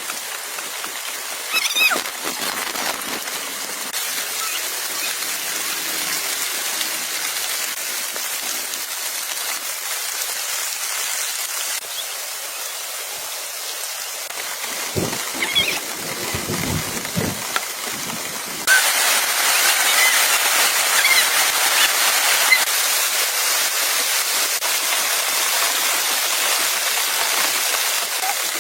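Steady rainfall hiss, which jumps louder about two-thirds of the way through, with a few low thuds a little past the middle.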